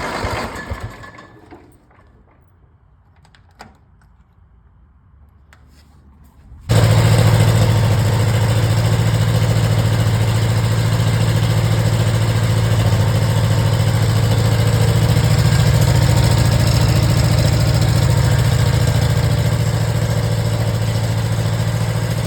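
International B414 tractor engine fading out about a second in, then a quiet stretch with a few clicks. About seven seconds in the engine starts abruptly, on the newly fitted starter solenoid, and runs steadily at idle.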